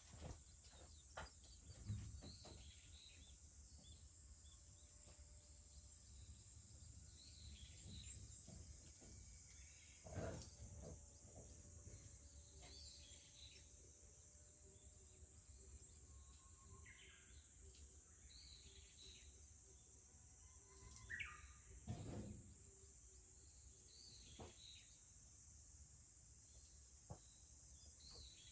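Faint, steady high-pitched drone of cicadas, with birds chirping every few seconds and a few soft knocks.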